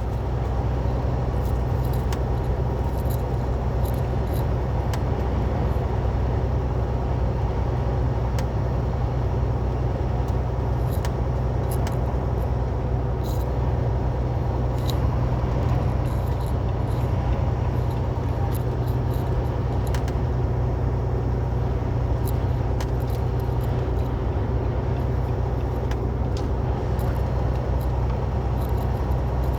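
Semi truck's diesel engine running steadily under way, heard from inside the cab, with small rattles and ticks scattered over the drone.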